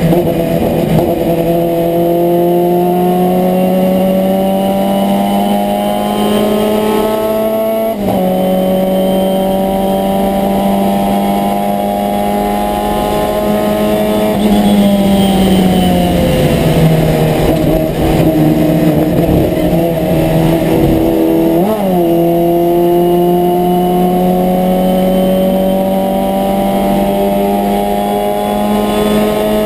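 Abarth 1000 TC's four-cylinder racing engine heard from inside the cockpit under hard running, the revs climbing slowly and dropping suddenly about eight seconds in at a gear change. Around the middle the revs fall away as the car slows, a short throttle blip follows a few seconds later, and the engine then pulls steadily up through the revs again.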